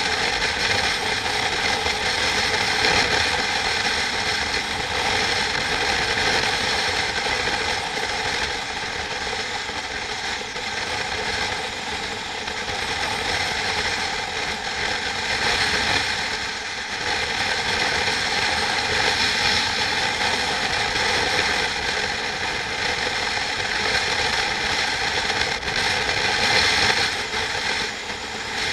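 Steady, unbroken mechanical running noise from a machine or vehicle.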